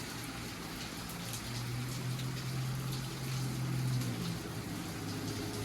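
Heavy rain pouring down steadily, with single drops striking close by. A low steady hum swells for a few seconds in the middle.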